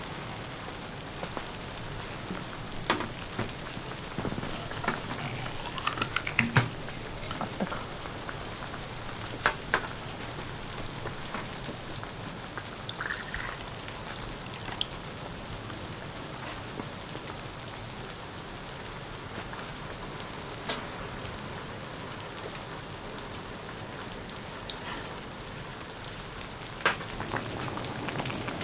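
Steady patter of falling precipitation, with a few scattered light clicks and knocks.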